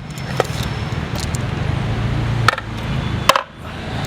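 Steady low hum of a running vehicle engine close by, with three sharp clicks of metal parts being handled, the last two near the end.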